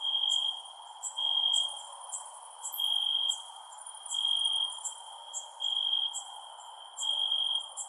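Crickets chirping at night. One high, steady-pitched trill repeats in half-second bursts about every second and a half, over quicker, higher short chirps from other insects and a faint even background hiss.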